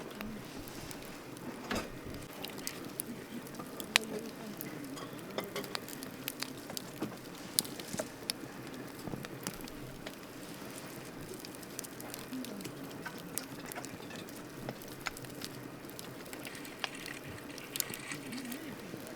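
Wood campfire crackling steadily, with irregular sharp pops and snaps from the burning wood over a soft hiss; the loudest pop comes about four seconds in.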